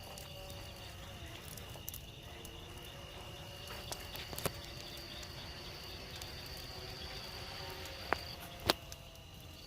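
Night insects trilling steadily in two high, even tones, with a few sharp pops from the burning brush pile, the loudest two near the end.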